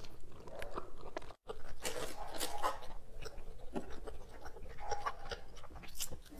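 Close-up biting and chewing of a chocolate-coated cake, with irregular wet mouth clicks. The sound drops out completely for a moment about a second and a half in.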